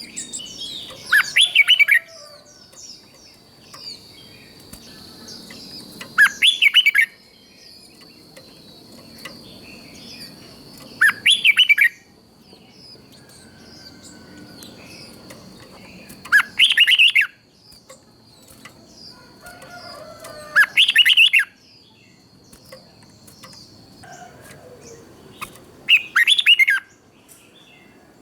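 Red-whiskered bulbul singing, a short loud phrase about every five seconds, six in all. Fainter chirps of other birds and a steady high whine run behind it, the whine stopping near the end.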